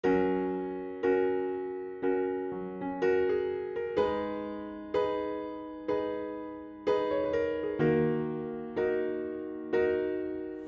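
Intro music on an electric piano: a slow sequence of chords, one struck about every second and left to fade.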